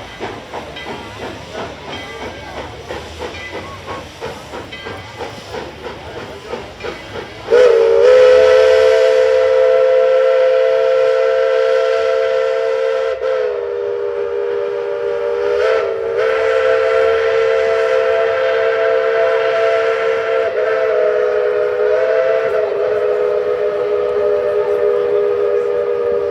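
Steam locomotive running with a rhythmic hissing exhaust; about seven and a half seconds in its chime whistle starts in one long blast of several notes at once, wavering briefly a few times and still sounding at the end.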